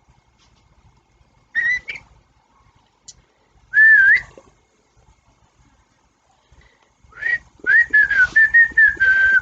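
Whistling: a short whistle about a second and a half in, a wavering one about four seconds in, then a long run of quick broken whistled notes from about seven seconds in, slowly falling in pitch.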